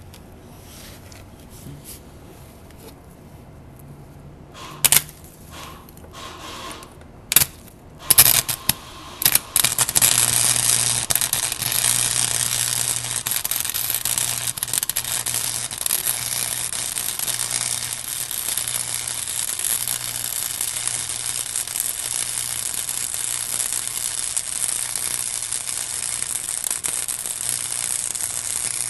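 Small wire-feed welder striking an arc: a few short crackling bursts between about five and nine seconds in, then a steady sizzling, crackling weld from about ten seconds on, with a low hum underneath.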